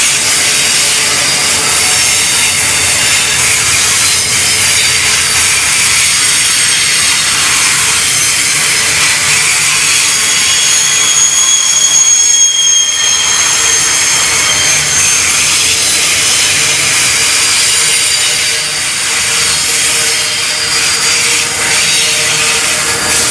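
Double-stacked container wagons of a freight train rolling past: a steady loud rush of steel wheels on rail, with high thin squealing tones that come and go around the middle and near the end.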